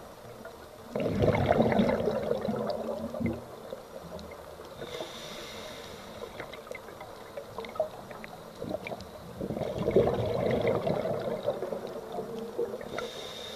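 A scuba diver breathing through a regulator underwater: two long rushes of exhaled bubbles, about a second in and again about nine seconds in, with a fainter hiss of the inhale between them and scattered faint clicks.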